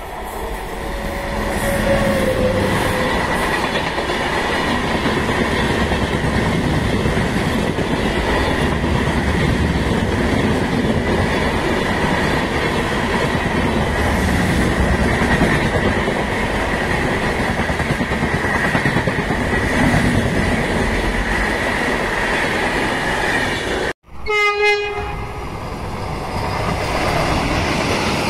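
Indian Railways express train hauled by an electric locomotive passing close by at speed, its coaches rumbling and clattering over the rails. After a sudden cut near the end, a short horn blast sounds and a Vande Bharat trainset runs past.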